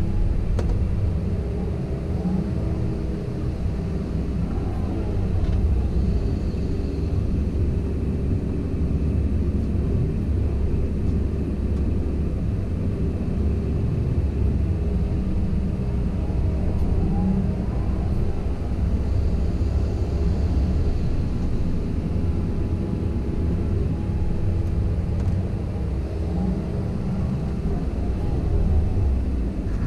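Komatsu PC170LC-10 excavator's diesel engine running steadily at working speed, a continuous low rumble with faint rising and falling whines now and then.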